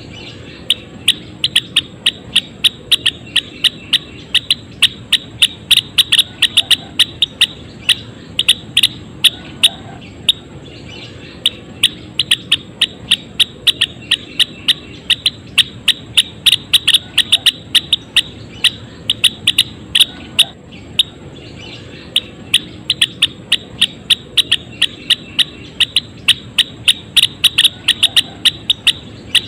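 Gelatik wingko songbird calling in a fast run of short, sharp chirps, about three to four a second, pausing briefly about a third of the way in and again about two-thirds in.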